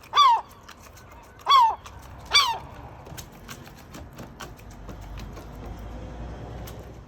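Seagull giving three loud, short calls, each falling in pitch, in the first few seconds, then only faint tapping.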